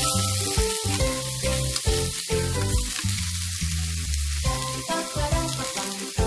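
Fried tofu cubes and sliced vegetables sizzling in a hot oiled pan, a steady frying hiss under background music with a plucked melody and bass.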